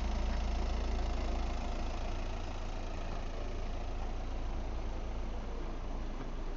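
A car engine running with a low rumble as a taxi pulls away, the rumble dropping off after about two and a half seconds.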